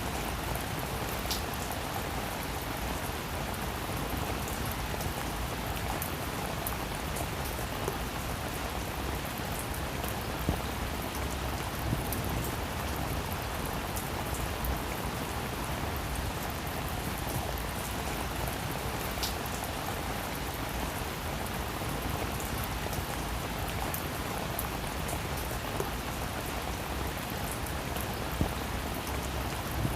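Steady rain falling on a roof, a dense even patter with occasional louder individual drops.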